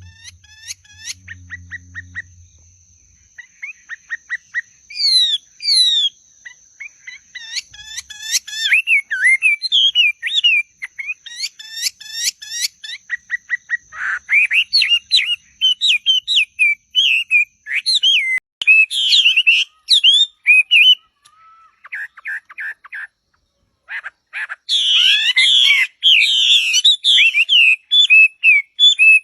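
Birds singing and calling: quick runs of chirps and short whistled notes that sweep up and down, broken by brief pauses, with a steady thin high tone underneath through the first half.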